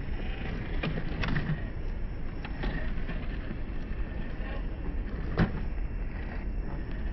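FMS LC80 radio-controlled crawler truck driving over sand and rocks, its small electric motor and gears running under a steady rumble, with a few sharp knocks, the loudest about five and a half seconds in.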